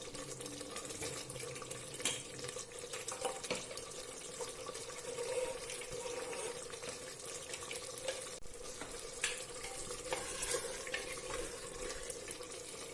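Chicken cooking in masala in a pot, a steady low sizzle with a few faint taps of a spoon.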